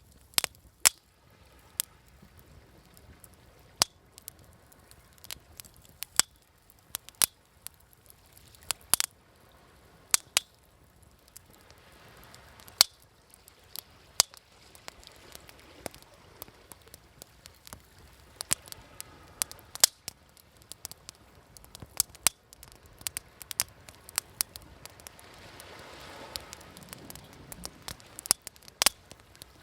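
Campfire crackling, with frequent sharp, irregular pops. Behind it is a soft wash of waves that swells and fades, strongest near the end.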